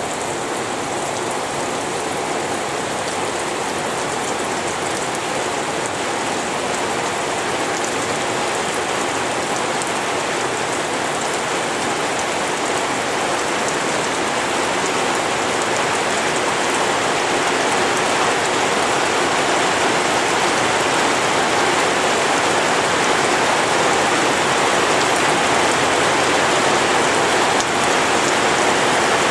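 Steady rain falling on rice paddies, an even hiss of drops that grows slowly louder.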